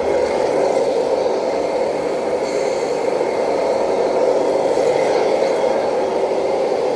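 Radio-controlled scale model truck running, a steady mechanical drone.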